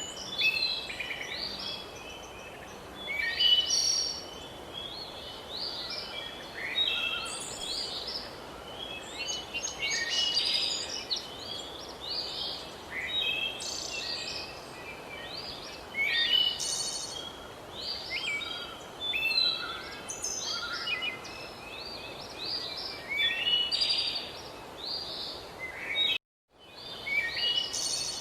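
Songbirds singing in quick, overlapping chirping phrases over a steady background hiss. The sound briefly cuts out near the end.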